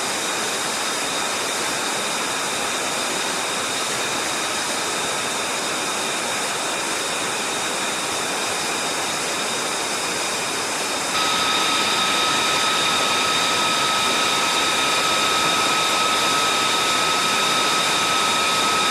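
Jet engine running steadily: an even rushing noise with a high turbine whine over it. About eleven seconds in it steps up abruptly, getting louder and adding a higher, sharper whine.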